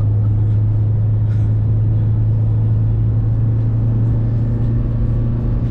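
Mercedes-Benz 190E engine running steadily with a low hum that edges slightly higher near the end, its KE-Jetronic fuel injection freshly repaired.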